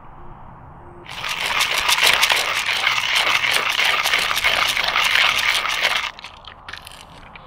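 Hand coffee grinder crunching beans for about five seconds, a dense crackling that starts and stops abruptly, followed by a few short clicks.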